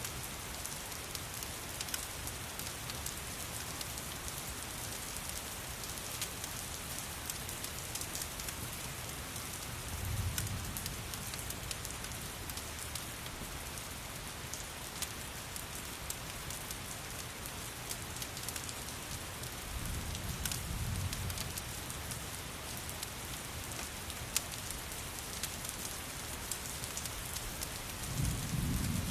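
Steady rain hiss with scattered sharp crackling ticks from a fireplace. A short low rumble comes three times: about a third of the way in, about two-thirds in, and near the end.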